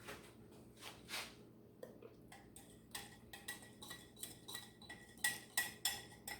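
A metal utensil clinking and ticking against the stainless steel inner pot of an Instant Pot while stirring butter and flour into a roux. A run of light, ringing taps, coming closer together and louder in the second half.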